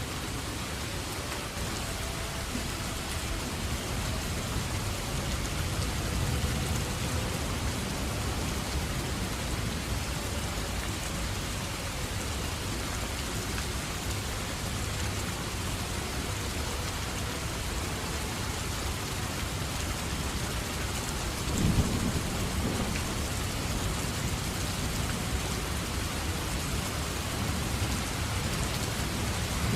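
Steady heavy rain with rolling thunder underneath: low rumbles swell several seconds in, and a sharper thunderclap comes about two-thirds of the way through.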